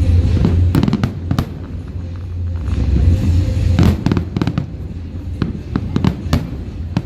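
Aerial fireworks exploding: a run of sharp bangs and crackles at irregular intervals over a steady low rumble.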